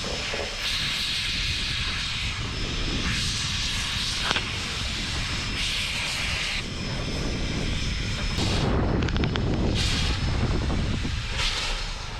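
Southern Pacific narrow-gauge steam locomotive No. 18, a Baldwin 4-6-0, moving slowly with repeated hissing bursts of steam every second or two over a steady low rumble.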